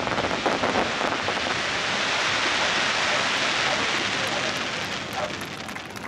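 Firework crackle stars bursting in a dense, rain-like crackle as the glittering trails fall, fading away near the end.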